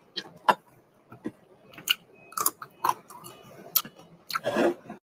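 Close-up mouth noises of a woman eating: wet chewing with irregular smacks and clicks of the lips, and a louder, longer smack about four and a half seconds in.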